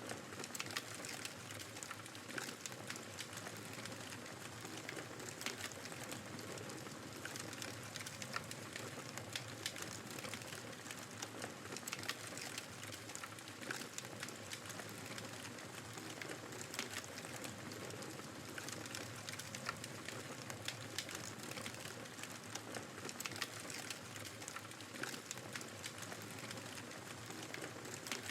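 Wood fire crackling with frequent small pops and snaps, over a steady hiss of blizzard wind and snow.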